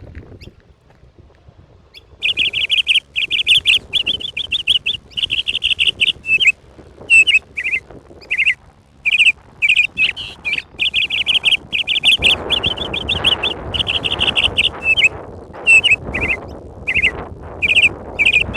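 A bird chirping rapidly and loudly close by, in quick strings of high notes with short breaks, starting about two seconds in. A rushing background noise rises under it about two-thirds of the way through.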